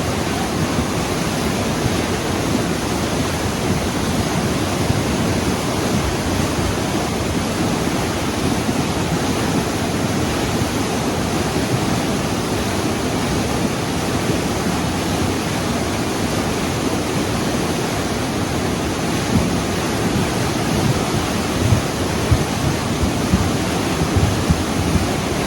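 Loud, steady rushing of water, an even roar with no rhythm and a few small surges near the end.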